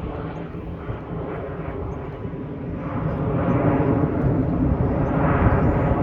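Aircraft flying past, its engine roar with a whining tone, growing louder about halfway through.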